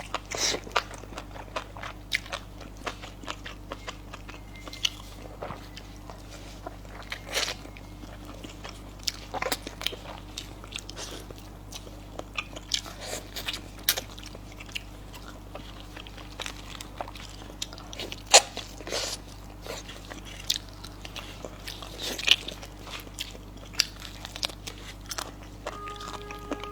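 Close-up eating sounds: chewing with irregular crunchy bites and sharp wet clicks, over a steady low hum. A short pitched tone starts near the end.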